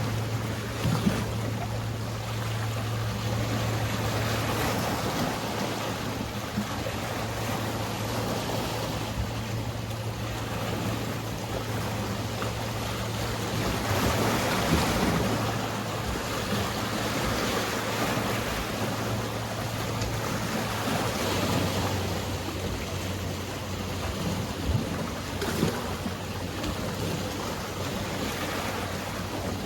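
Sea waves washing steadily, with a louder wash about halfway through, over the low steady hum of a boat engine that drops a little in pitch about two-thirds of the way in.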